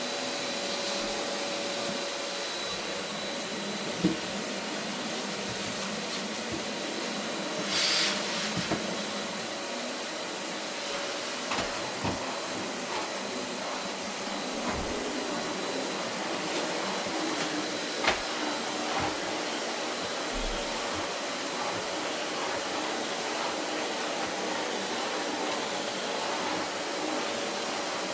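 Vacuum cleaner running steadily over carpet, with a few short knocks and clicks along the way.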